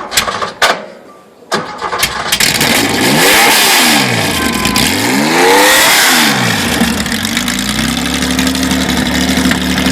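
Porsche 911R recreation's air-cooled flat-six starting with the exhaust caps off: two sharp knocks in the first second, the engine catches about a second and a half in, is revved up and down twice, then settles to a steady idle.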